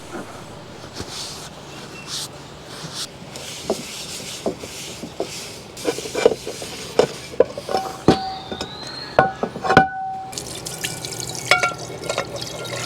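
Dishes and cookware being washed: water pouring and splashing, then a run of sharp clinks and knocks of metal and dishes, some ringing briefly, through the second half.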